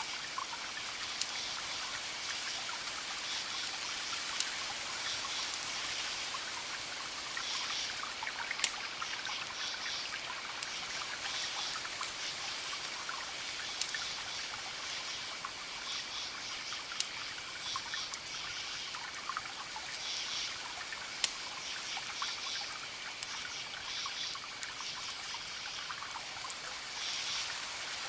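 Campfire crackling, with scattered sharp pops, over crickets chirping in repeated pulsed bursts and a continuous high trill, all on a steady hiss.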